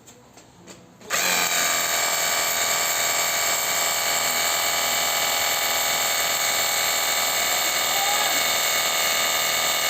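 Battery-powered portable pressure washer's motor and pump starting up about a second in, then running steadily with a whine.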